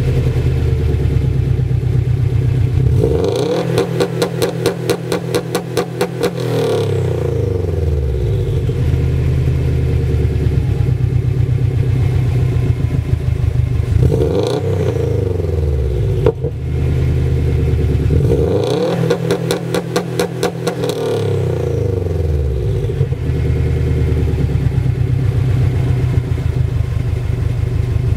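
2006 Subaru STI's turbocharged flat-four, breathing through a catless downpipe and axle-back exhaust, idling and then revved twice, each time held for about three seconds against the launch-control rev limiter set at 5000 rpm with a rapid, even stutter before dropping back to idle. There is a short rev blip between the two holds.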